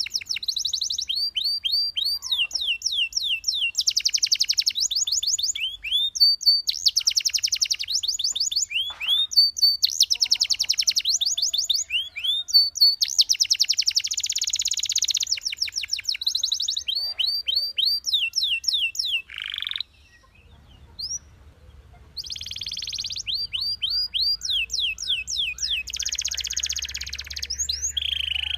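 Belgian canary singing: fast trills and rolls alternating with runs of quick downward-sweeping whistles, with a short break in the song about two-thirds of the way through.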